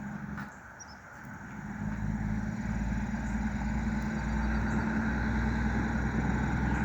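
A car driving, with steady engine hum and road noise. It dips briefly about a second in, then builds and holds steady.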